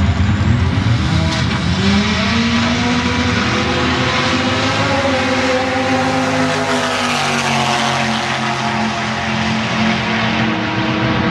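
Turbocharged Toyota 18R four-cylinder engine of a drag-racing modified altered running, its pitch climbing from about two seconds in and falling back after about five seconds, then holding steady.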